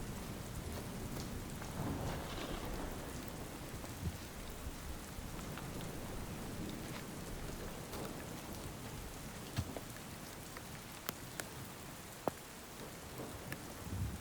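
Steady rain falling, with scattered individual drops striking close by. A low thunder rumble fades away over the first few seconds.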